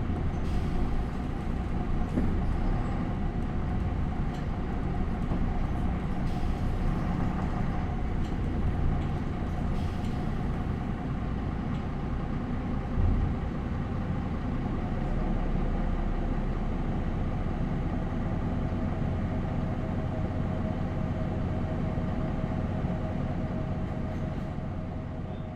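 MAN NL 263 city bus running: its MAN D28 diesel engine and ZF Ecomat automatic gearbox give a steady low rumble with a steady whine over it and occasional short rattles and knocks. The sound fades away near the end.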